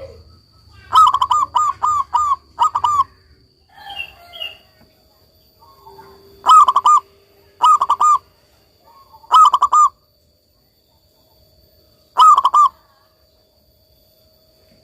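Zebra dove (perkutut) singing its rolling coo: five phrases of quick repeated notes, the first and longest about a second in, then shorter phrases every few seconds with gaps between.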